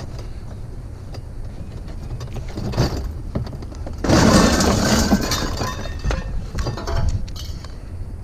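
Hard scrap pieces clattering and clinking as they are handled and tossed onto a pile. There is a dense jumble of about a second, starting about four seconds in, with a few separate knocks before and after, over a steady low rumble.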